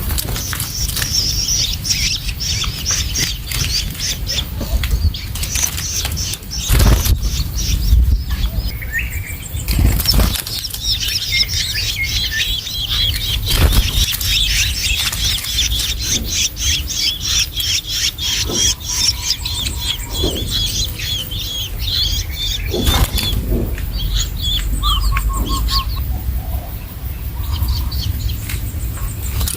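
Long-tailed shrike (cendet) young calling in a rapid, high chatter of quickly repeated calls, with a few dull thumps.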